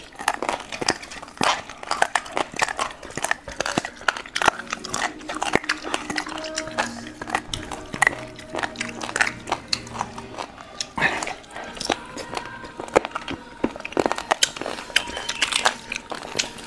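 Close-up eating sounds: chewing and biting into boiled pork, with many quick clicks and crunches.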